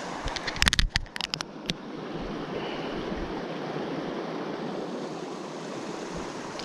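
Steady rush of river water, with a quick cluster of sharp clicks and knocks about a second in.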